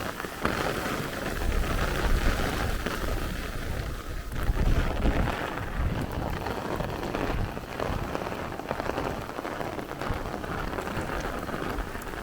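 Heavy rain pouring down, rising sharply about half a second in, with low rumbling gusts of wind under the hiss of the downpour.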